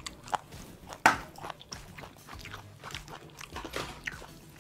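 A person chewing and biting crispy KFC fried chicken: irregular crunches with a sharp, loud one about a second in.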